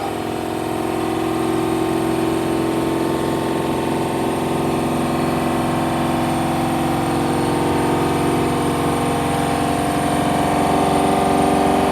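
Hoover One Touch washing machine spinning a load of blanket and bedding at high speed: a steady motor and drum whine over a low rumbling vibration.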